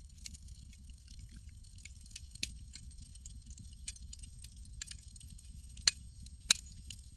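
Campfire crackling: irregular sharp pops and snaps over a low, steady rumble, with two louder pops near the end.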